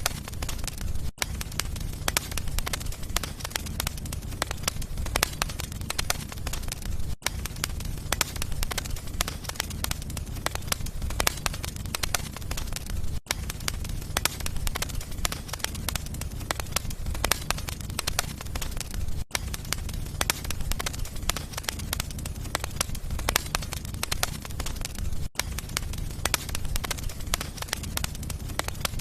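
Wood fire in a fireplace crackling: many irregular sharp pops and snaps over a steady low rumble, with a brief dropout about every six seconds.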